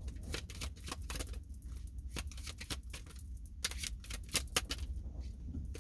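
Tarot cards being shuffled and handled, an irregular run of quick card clicks and snaps.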